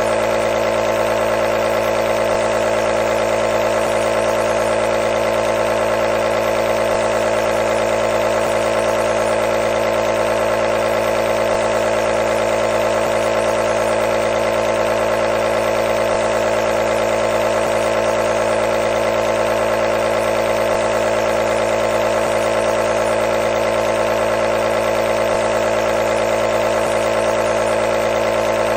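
Nebulizer compressor running continuously: a steady, unchanging mechanical hum.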